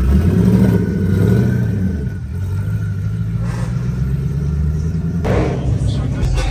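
Car engine revving up and easing back in the first two seconds, then running steadily. A short sharp noise breaks in about five seconds in.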